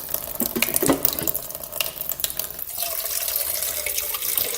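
Water from a tap running into the water tank of a Krups Nespresso coffee machine to refill it, with a few clicks and knocks in the first couple of seconds as the tank is handled. The filling sound steadies and becomes more ringing from about three seconds in.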